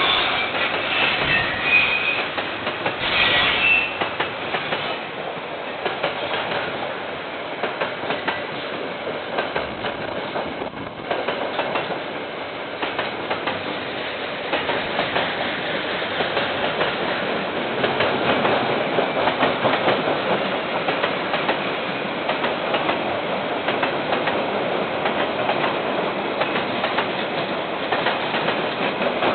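A KiwiRail train's wagons rolling steadily past, wheels clicking over rail joints, with brief wheel squeal in the first few seconds. It is heard through a security camera's microphone, which cuts off the highs.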